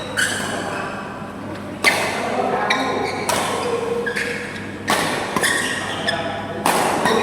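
Sharp hits, about six at uneven intervals, each followed by a short ringing tone and the echo of a large hall.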